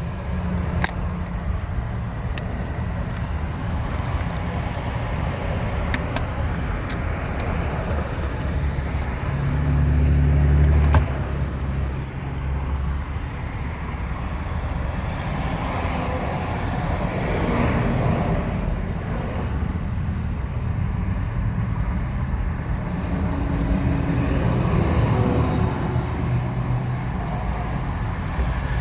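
Road traffic noise: a steady low rumble of motor vehicles, swelling louder about ten seconds in and cutting off sharply, with another vehicle passing a little later.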